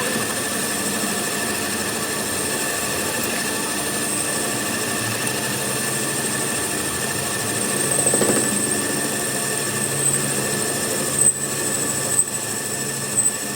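A workshop machine running steadily with a constant high whine, swelling briefly about eight seconds in, with a few sharp knocks near the end.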